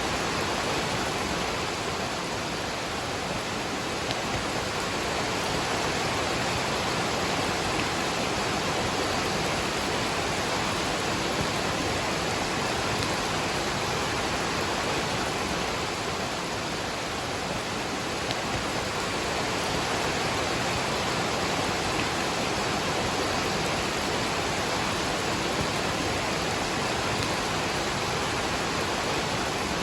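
Waterfall and rain: a steady, even rush of falling water with no breaks.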